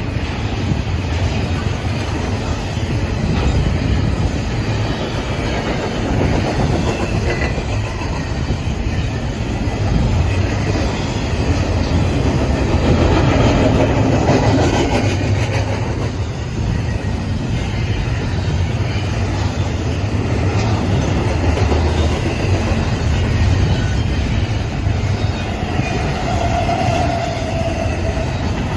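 Intermodal freight train rolling past with a steady, loud rumble and wheels clacking over the rail joints, and a brief wheel squeal near the end.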